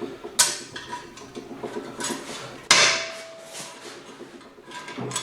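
Metal transmission parts clinking and knocking as they are handled and fitted. There are two sharper knocks, about half a second in and just under three seconds in. The second one leaves a short metallic ring.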